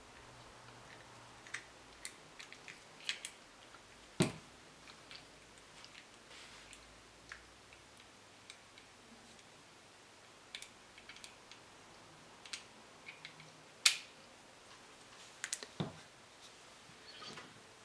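Small metal engine parts and tools being handled on a workbench: scattered light clicks and taps, with sharper knocks about four seconds in, near fourteen seconds, and again shortly after.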